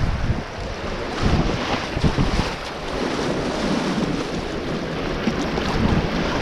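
Rushing river water with wind buffeting the microphone in irregular low gusts.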